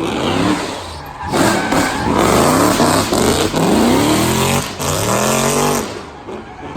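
Drift car's engine revving hard, its pitch sweeping up and down several times, with short drops off the throttle between the sweeps.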